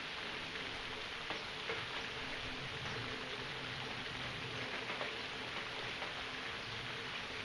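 Steady rain falling, a continuous even hiss with scattered individual drops and drips ticking through it.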